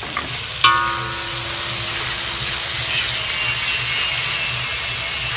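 Chopped tomatoes sizzling in hot oil in a large metal wok. About half a second in, the metal spoon strikes the wok, which rings with a clear tone that fades over a couple of seconds.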